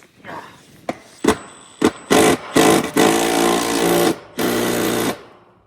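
Cordless power driver running in three bursts, a short one about two seconds in, then a longer run and a shorter one, driving the bolts that hold down a new compressor. A few sharp clicks of tools and parts come before it.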